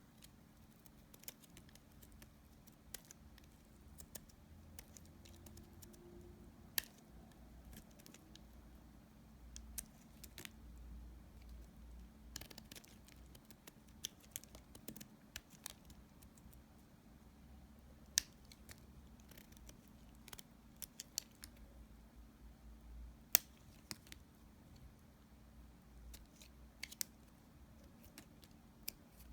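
Dry leftover bar-soap pieces being cut, giving scattered crisp snaps and crackles at irregular intervals, a few of them sharper and louder than the rest.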